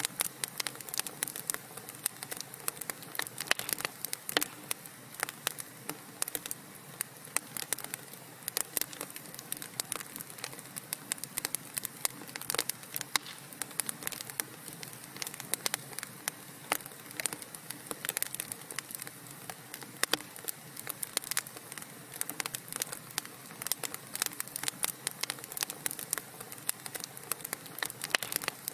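Wood fire burning in a fireplace: dense, irregular crackling and popping of burning logs over a steady hiss.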